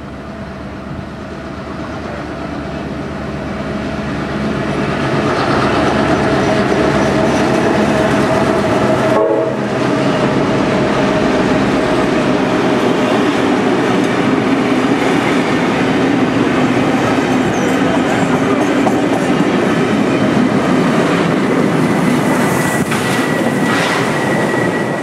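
Heritage passenger train approaching and passing close by, growing louder over the first six seconds, then the steady rumble and clatter of the carriages' wheels on the rails as they run past. A thin, high squeal comes in near the end.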